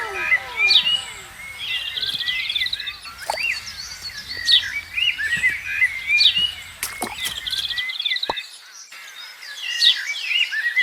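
Birds chirping and calling outdoors: repeated short chirps, brief trills, and a few falling whistled notes near the start. A low background rumble cuts off abruptly about eight seconds in.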